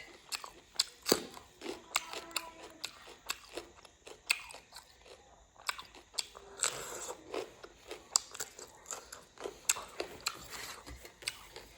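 Close-up eating sounds: a person biting and chewing food, with many irregular sharp crunches and wet mouth clicks.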